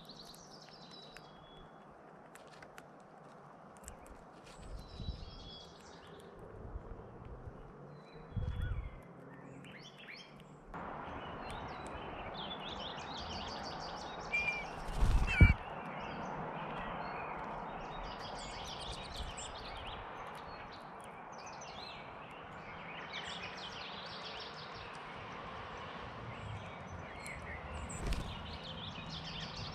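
Wild songbirds chirping and singing, with many short high notes. Behind them is a steady outdoor hiss that steps up about a third of the way in. A few low thumps come through, the loudest about halfway.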